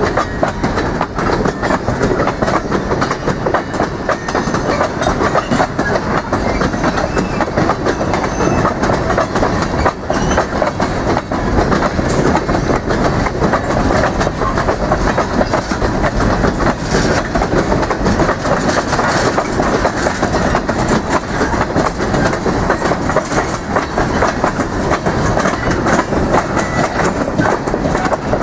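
Freight train of tank cars rolling past, its steel wheels clattering steadily over the track.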